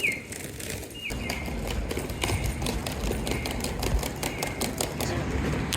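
Audible pedestrian crossing signal chirping: a short falling electronic tone repeating about once a second. It plays over a dense run of sharp clicks and a low traffic rumble that comes in about a second in.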